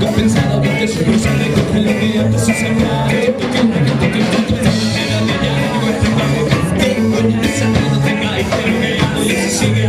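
Live band playing a ska-rock groove with electric guitar, bass and drums, with some singing.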